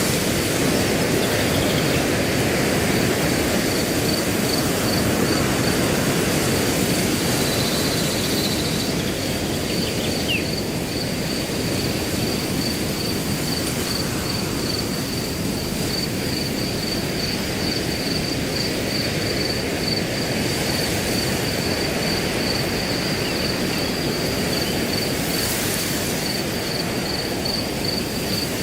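Wind rushing steadily through grass, with a cricket chirping in an even, unbroken pulse over it. A single brief bird call about ten seconds in.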